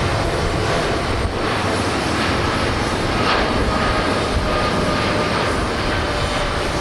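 Jet airliner's engines at takeoff thrust: a loud, steady noise with faint whining tones that drift slowly in pitch.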